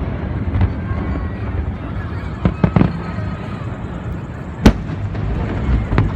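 Aerial fireworks shells bursting over a continuous low rumble: a quick cluster of three bangs about two and a half seconds in, a single loud bang near five seconds, and another just before the end.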